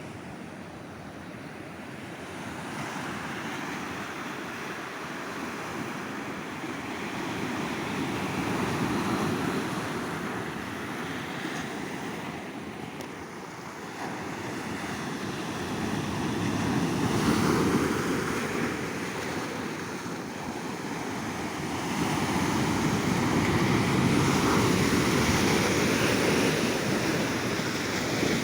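Ocean waves breaking and washing up a beach, the surf swelling into louder surges about every eight seconds. Wind noise on the microphone.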